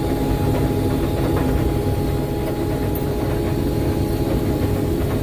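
Combine harvester running steadily while cutting soybeans: a continuous engine and machinery drone with several held hum tones.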